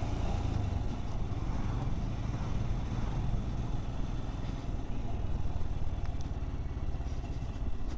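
Motorcycle running steadily on the move, a low engine rumble under a constant rush of road and wind noise.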